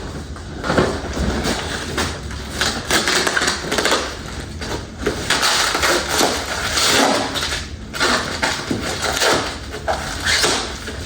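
Parts packaging being handled and unpacked: boxes and plastic wrapping rustling and crinkling in irregular bursts, with small clicks and knocks.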